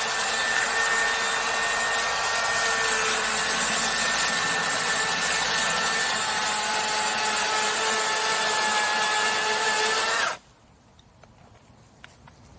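Chainsaw running at a steady high speed while cutting into an oak trunk, then cutting off abruptly about ten seconds in, leaving a few faint clicks.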